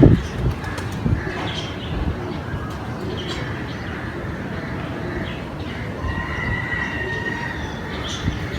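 Birds calling over a steady low background rumble, with one held whistle-like call lasting about a second, roughly two-thirds of the way through.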